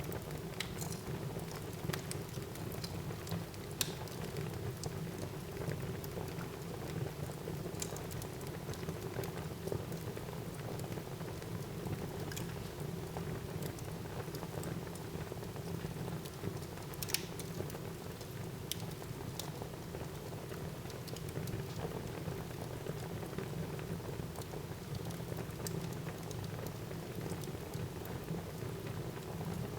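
Wood fire burning in a fireplace: a steady crackle and hiss with scattered sharp pops, two of them louder, about 4 and 17 seconds in.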